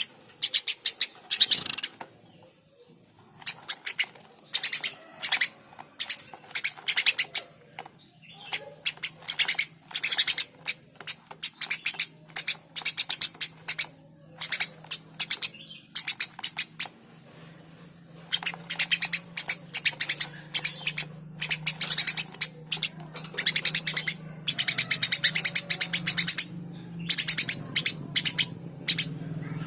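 Eurasian tree sparrow chirping in fast, dense chattering runs broken by short pauses. A low steady hum builds up in the later part.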